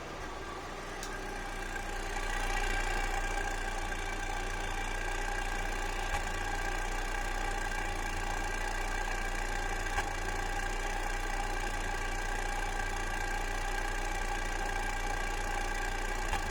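Fiat Coupe 2.0 16v four-cylinder engine idling with a misfire: a steady hum that gets a little louder about two seconds in, with a few brief sharp ticks.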